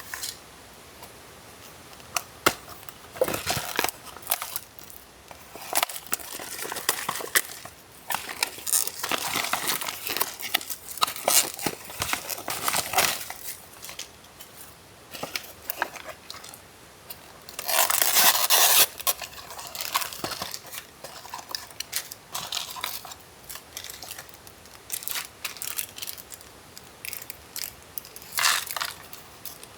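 Plastic wrapping being torn off and crinkled while a Peyang instant yakisoba cup is opened, in irregular rustling and crackling bursts, loudest in one long crinkle a little past the middle.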